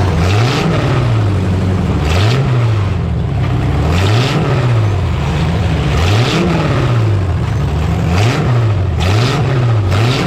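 Demolition derby truck engine revving up and down over and over, its pitch climbing and falling about once a second, with several sudden bangs of collisions between trucks.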